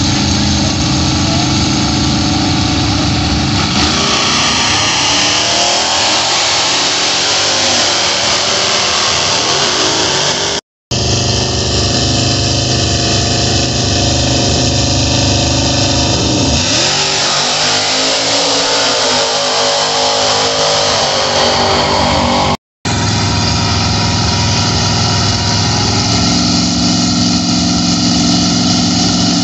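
Drag-racing muscle cars at the starting line, their engines running loud with the revs rising and falling. The sound drops out completely for an instant twice, about 11 and 23 seconds in.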